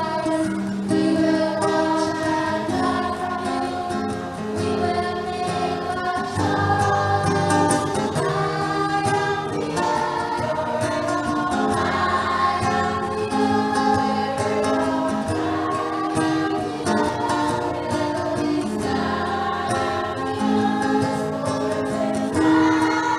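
A choir singing, with sustained notes that change pitch about once a second.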